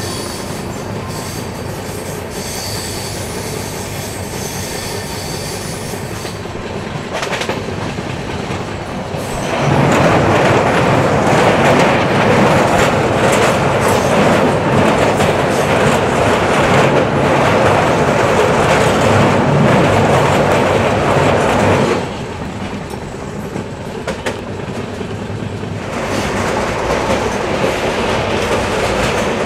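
Moving passenger train, the 19032 Yoga Express, heard from an open coach door: a steady rumble and clatter of wheels on the rails, with a faint high wheel squeal on a curve at first. About a third of the way in it turns much louder and stays so for about twelve seconds while the train crosses a river bridge. Near the end it drops back to the plain running noise.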